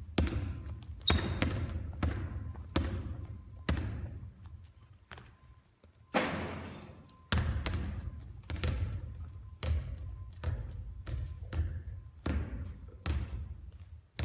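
Basketballs bouncing on an indoor court floor during three-point shooting practice: sharp thuds about once a second, each echoing in the hall. About six seconds in there is a louder impact with a longer ring.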